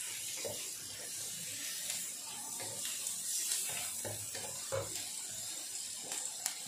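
Vegetables sizzling in a hot wok with a steady hiss while they are stirred with a wooden spatula, and a sharp click near the end.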